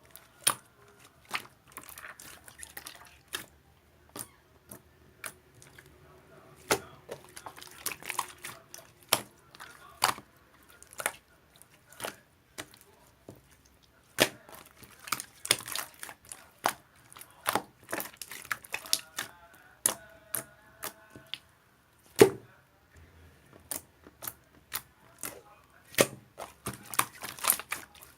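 Irregular sharp clicks and taps, coming in scattered clusters, with a louder single knock a little past the middle.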